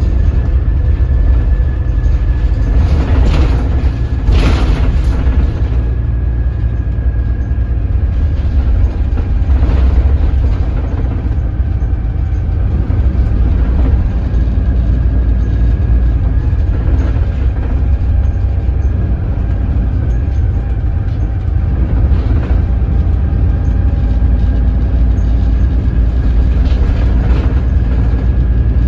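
Doosan DL08K inline-six turbo diesel of a Daewoo BS106 city bus running under way at low revs: a heavy, steady low rumble with a thin steady whine above it, and a short rattle about three to four seconds in.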